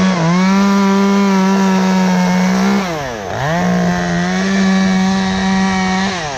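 Two-stroke chainsaw run up to full throttle and held for about three seconds, dropping briefly toward idle about three seconds in, then opened up again for another three seconds before falling off near the end. The held pitch sags slightly, as when the saw is cutting through the dead wood.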